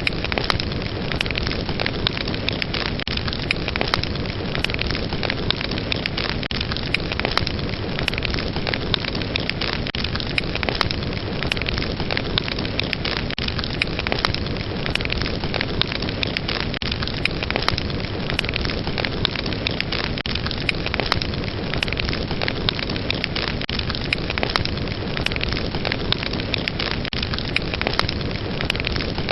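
Fire crackling in a fireplace: a steady dense hiss of flames with many sharp pops and crackles scattered all through.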